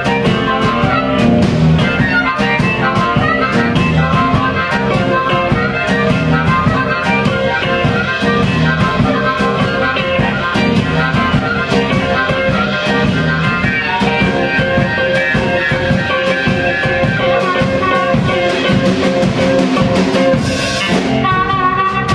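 Live band playing blues rock: electric guitar over a steady drum kit, with no singing.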